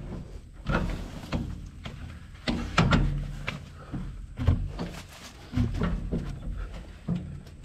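Irregular metal clunks and knocks from a Kubota tractor's three-point hitch lift arm being pushed and worked against a tiller's hitch pin while trying to line it up.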